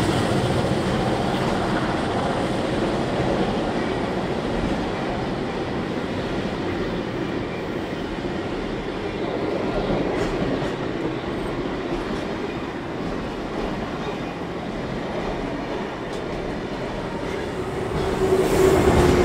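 Stainless-steel passenger carriages of a train rolling past at close range: a steady rumble of wheels on rail with a few clicks as the wheels cross rail joints. Near the end it grows louder with a steady engine hum as the trailing diesel locomotive draws near.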